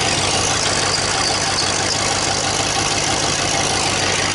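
The 351 V8 of a 1981 Mercury Grand Marquis running steadily on its high idle cam just after a cold start, heard from the exhaust side, where the car has several exhaust leaks.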